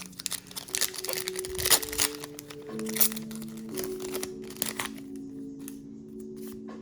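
Crinkling and tearing of a foil booster pack wrapper as it is ripped open, thinning out near the end, over background music with held notes.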